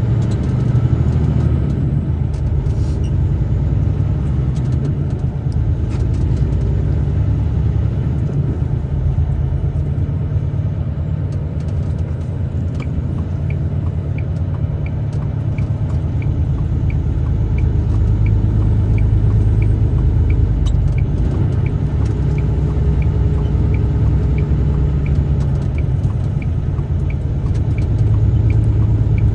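Steady low rumble of a truck driving, heard from inside the cab. From about halfway through, a turn signal ticks steadily at about one and a half ticks a second.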